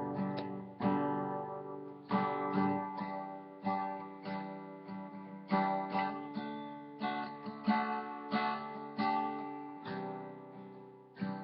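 Acoustic guitar playing a song's intro in strummed chords, one or two strums a second, each chord ringing out and fading before the next.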